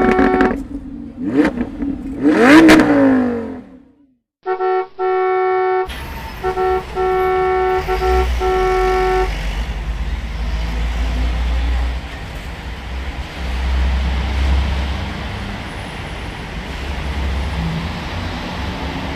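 Added sound effects for toy vehicles: two sweeping whooshes in the first few seconds, then a run of short car-horn honks, followed by a steady engine rumble that runs on.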